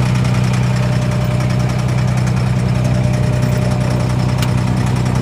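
A boat's engine running steadily with an even low drone, heard from on board: the engine of a Dubai Creek abra water taxi.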